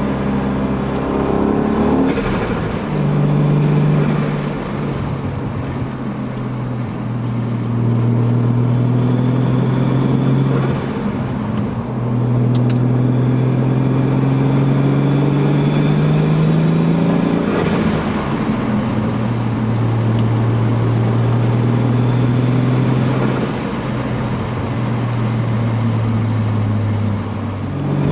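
Toyota Supra Mk3's 7M-GTE turbocharged 3.0-litre inline-six running under way at moderate, fairly steady revs. The engine note holds level for stretches and then drops or rises in a few steps as gears are changed.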